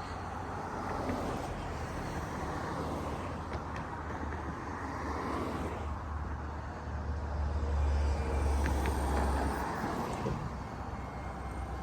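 Road traffic on a busy bridge: a steady hum of passing cars, with a heavier vehicle rumble swelling about seven to nine seconds in.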